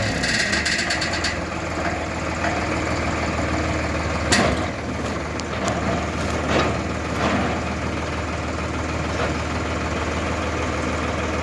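Sonalika Maharaja 745 tractor's diesel engine idling steadily. A brief rattle comes at the start, and a few sharp knocks or clanks follow, the loudest about four seconds in.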